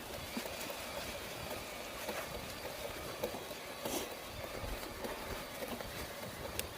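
Footsteps of someone walking on a trail: irregular crunching steps over a steady outdoor background hiss.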